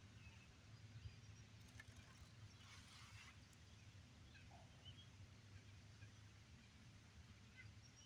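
Near silence outdoors: faint, scattered bird chirps over a low steady hum, with a brief soft rustle about three seconds in.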